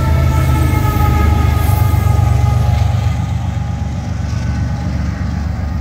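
Diesel locomotives at the rear of a heavy freight train rumbling past, with a steady high whine over the rumble that fades about halfway through as the locomotives move away.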